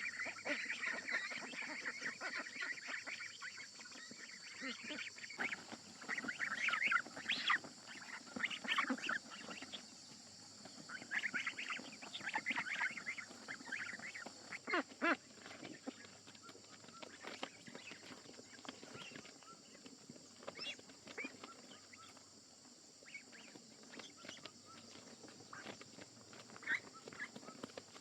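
Domestic fowl calling on and off in short, irregular cries, busiest in the first half, over a steady high-pitched drone.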